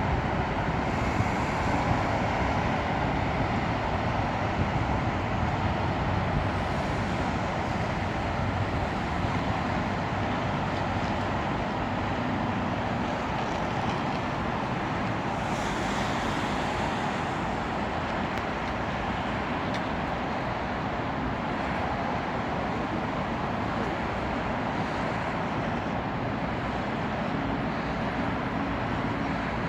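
Steady wash of road traffic noise, a continuous hum of passing cars.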